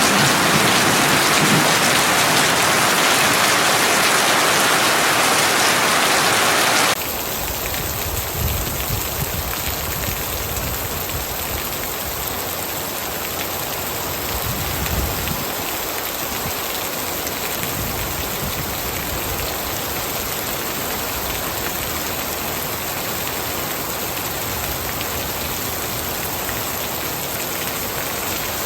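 Heavy rain falling steadily. About seven seconds in the sound cuts abruptly to a quieter, duller rain recording that runs on evenly.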